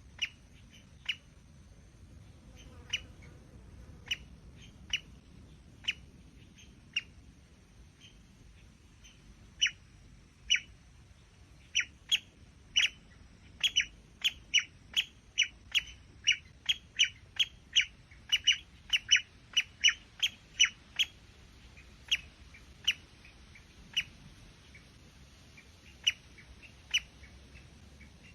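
Short, sharp bird calls repeated over and over: a few at first, then several a second for a stretch in the middle, then sparse again.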